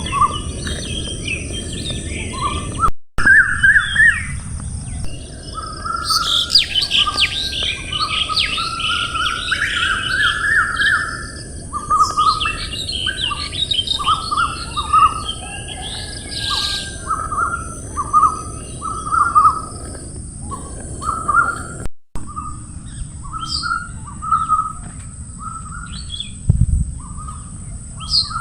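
Several birds chirping and calling, with many short notes repeated in quick runs, over a steady high-pitched hiss. The sound drops out briefly twice.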